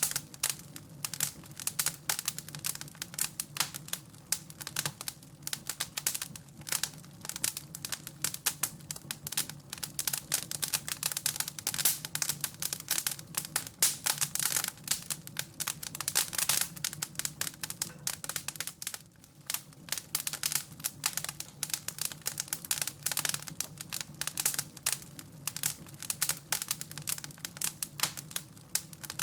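Wood fire crackling in a fireplace: a dense, irregular run of sharp crackles and pops over a low steady hum, thinning briefly about two-thirds of the way through.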